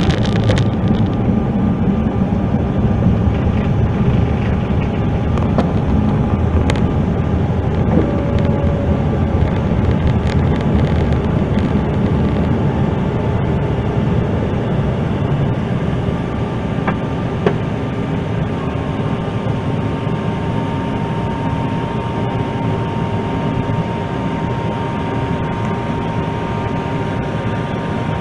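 Steady engine and airflow noise heard inside the cabin of a CRJ-900 regional jet, its rear-mounted General Electric CF34 turbofans running at power. A thin steady whine joins about two-thirds of the way through, and the noise eases slightly near the end.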